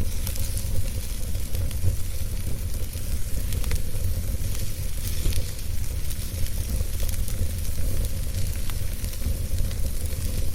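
Wood fire in a fireplace crackling and hissing over a steady low rumble, with scattered sharp pops.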